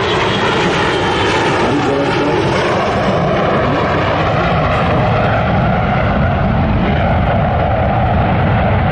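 Boeing 727 jet airliner passing overhead, its three rear-mounted turbofan engines making a loud, steady jet noise.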